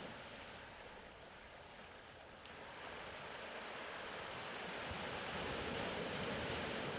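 Soft ocean surf: a faint wash that swells up over a few seconds in the middle and eases off again near the end, like a wave rolling in.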